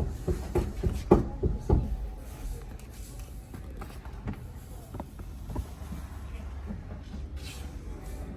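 A quick run of knocks on car bodywork, about seven in the first two seconds, then a steady low hum with a few scattered clicks.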